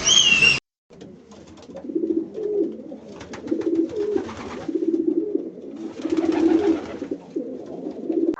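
Pigeons cooing, a series of low warbling coos repeated over and over, with scratchy rustling between some of them. A brief high whistle sounds at the very start before an abrupt cut.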